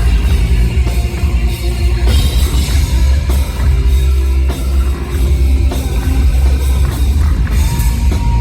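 Live rock band playing loudly, with drum kit and electric guitar over a heavy bass.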